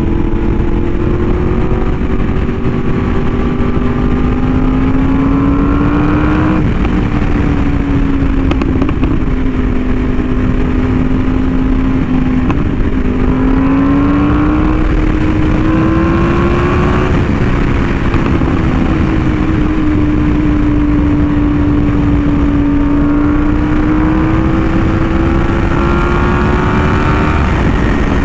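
Yamaha R1M's crossplane inline-four, fitted with an SC Project exhaust, running at steady cruising throttle: its pitch climbs slowly and drops sharply three times, about six, seventeen and twenty-seven seconds in, as at upshifts. Heavy wind rush underneath.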